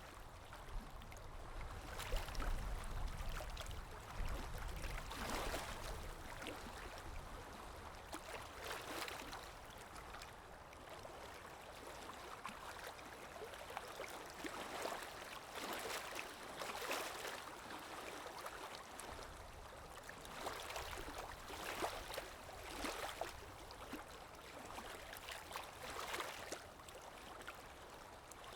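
River water gently lapping and rippling, swelling in soft, irregular surges every second or two, with a low rumble in the first few seconds.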